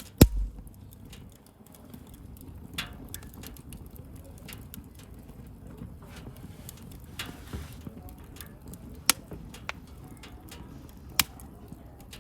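Wood bonfire crackling steadily, with sharp pops scattered through it, the loudest just at the start. A short hiss about seven seconds in.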